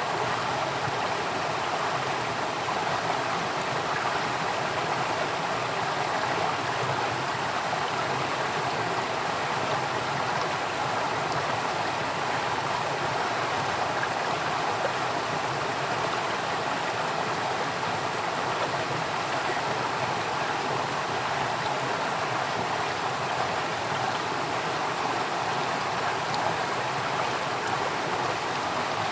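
Flowing water running steadily: a continuous, even rush with no breaks or separate splashes.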